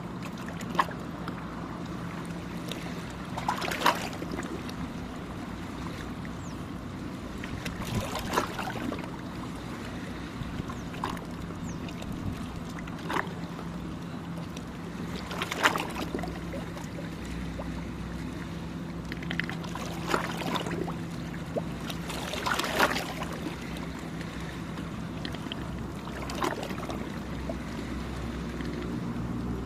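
Small waves lapping and splashing on the shore every few seconds, over a steady low engine hum from passing traffic or a boat.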